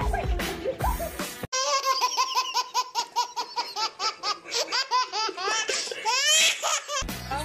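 A baby laughing hard: a long run of quick, high-pitched laughs, several a second, rising into squeals near the end. Before it, for about a second and a half, music with a few thumps.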